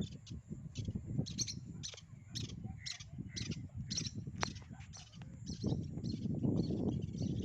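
Birds chirping outdoors, a run of short high calls about twice a second, over a low rumbling noise that grows louder in the second half.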